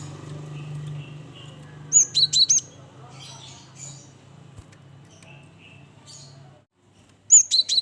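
Gelatik batu (cinereous tits) calling: a burst of four loud, sharp, high notes about two seconds in, fainter scattered chirps after, and another loud burst near the end. A low steady hum underneath cuts out about a second before the end.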